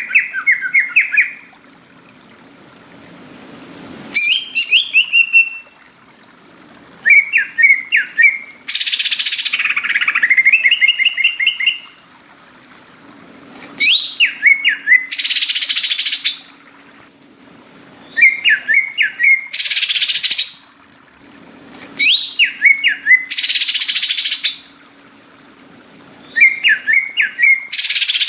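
Cucak ijo (green leafbird) singing hard: short phrases of quick rising and falling whistled notes repeat about every four seconds, alternating with harsh hissing bursts one to two seconds long. A faint low hum runs underneath.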